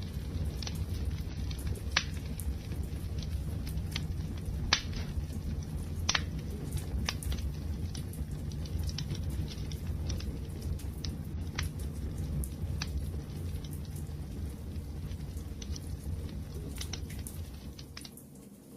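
Wood fire crackling: a steady low rumble of burning with irregular sharp pops and snaps, a few louder ones in the first six seconds, easing slightly near the end.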